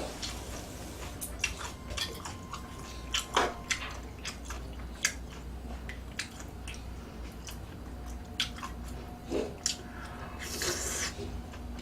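Close-miked eating sounds: irregular wet clicks and squishy bites of someone chewing food, with a short hissy slurp near the end.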